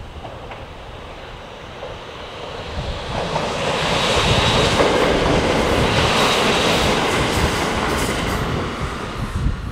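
Limited express electric train passing at speed, its rumble and wheel noise swelling about three seconds in, loudest as the cars go by, then trailing off near the end with a clatter of wheels over the rail joints. Wind buffets the microphone underneath.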